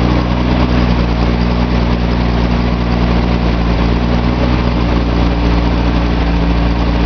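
Nissan L28 2.8-litre straight-six with a Maxima cylinder head running steadily on an engine test stand, still cold and held at a raised idle by its auxiliary air regulator until it warms up.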